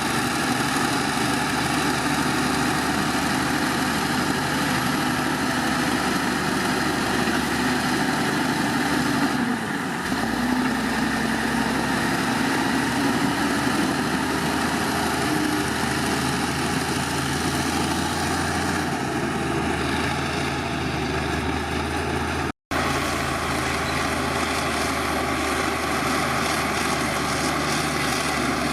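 Heavy diesel engine of earthmoving machinery running steadily. Its pitch shifts about ten seconds in and again a little past halfway, and the sound cuts out for an instant about three-quarters of the way through.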